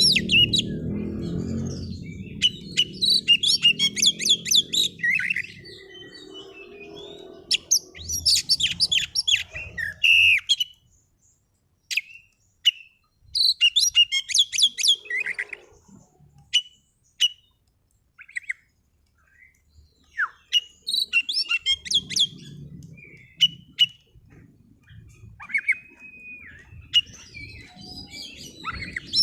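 Oriental magpie-robin singing: quick bursts of rapid, high chirping phrases a few seconds apart, with single sharp notes and a short whistled note in between.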